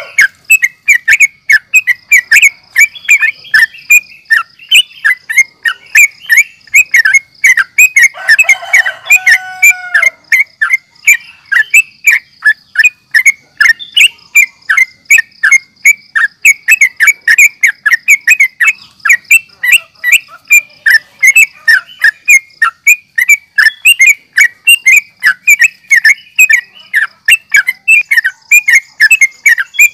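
Yellow-vented bulbul (trucukan) singing in a fast, continuous run of bright chirping notes, several a second, with a lower, harsher call about eight seconds in. It is the bulbul's full fighting song used as a lure to make other trucukan answer.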